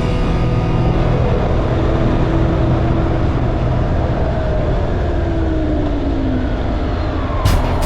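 Motorcycle running at road speed: a steady engine hum under road and wind noise, with a note sliding down in pitch midway, like another vehicle going past.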